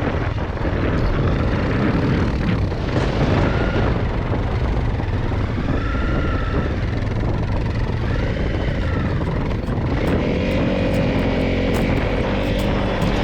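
An engine running amid heavy wind rumble, its pitch rising and falling a few times, with a steady hum settling in about ten seconds in.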